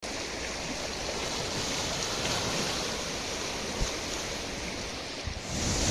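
A creek in flood after heavy rain, its water rushing with great force in a steady, even rush. There is one brief thump a little under four seconds in.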